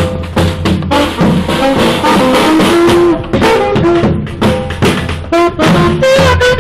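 A street brass band playing live: horns and saxophone over a drum kit with a steady bass-drum beat.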